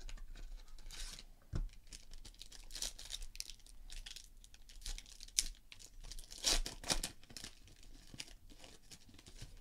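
Plastic wrapping on a sealed box of trading cards being torn open and crinkled, with irregular rips and crackles, loudest a little past the middle.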